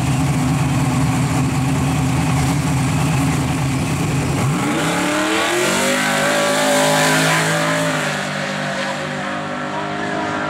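Drag race car's engine rumbling low, then revving sharply up about four and a half seconds in as it launches and holding at high revs, its pitch and level dropping slightly about eight seconds in.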